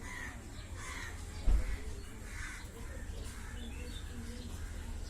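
Birds calling repeatedly in short, harsh calls over a steady low rumble, with one brief loud thump about a second and a half in.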